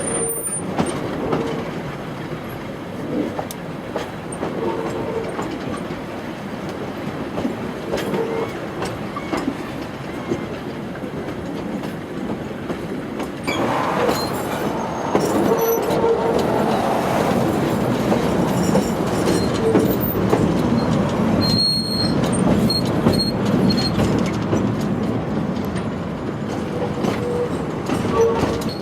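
Passenger train running along the track, heard from aboard a carriage: a steady rumble with the click of wheels over rail joints, growing louder about halfway through. A few short, high wheel squeals come about three-quarters of the way through.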